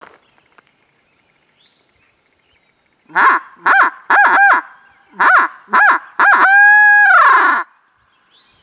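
A bird calling loudly: six short calls that each slide down in pitch, then one long held call that drops in pitch at its end.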